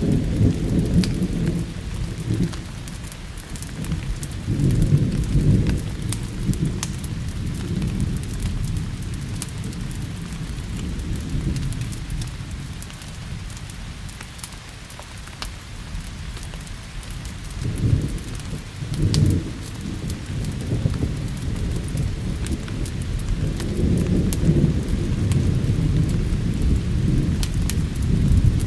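Steady rain with rolling thunder: deep rumbles swell near the start, again a few seconds in, twice briefly in the middle and in a long roll near the end. Scattered sharp crackles, the sound of a log fire, ride over the rain's hiss.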